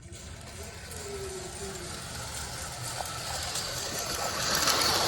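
Lionel Rail Blazer toy electric train running fast on its track: a steady whir of the small motor and rattle of wheels on the rails, growing louder as it comes closer.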